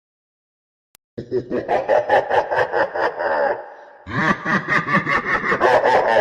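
A person laughing in quick rapid pulses, starting about a second in after a brief click, with a short break in the middle before the laughing picks up again.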